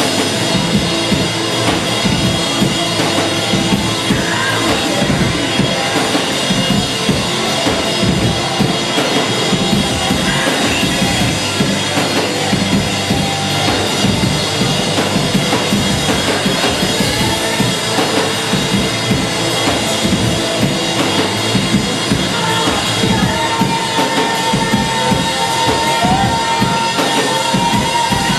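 Live band playing a song, drum kit prominent with steady kick and snare hits. A held high note comes in near the end.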